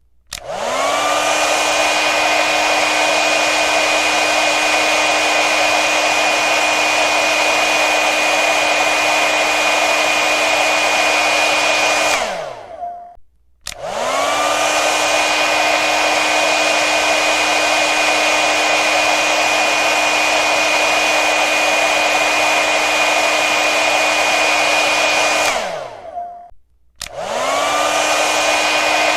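Hair dryer switched on, its motor whine rising to speed, then blowing steadily for about twelve seconds before it is switched off and the whine falls away as it spins down. After a second of silence it starts again; the on-run-off cycle repeats.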